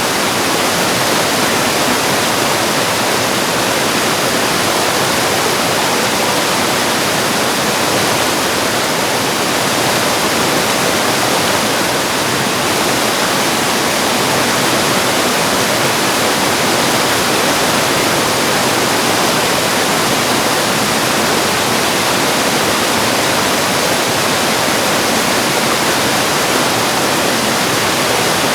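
Mountain stream water rushing steadily over rocks and small cascades, a continuous even rush with no breaks.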